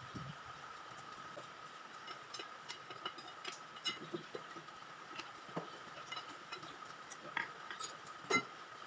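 Scattered light clicks and taps of hand tools and metal parts being handled during engine disassembly, with a sharper knock about eight seconds in, over a faint steady high-pitched tone.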